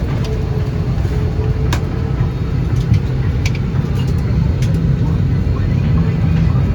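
Steady low rumble of a vehicle in motion, with a faint tone sliding slightly lower in the first couple of seconds and a few light clicks.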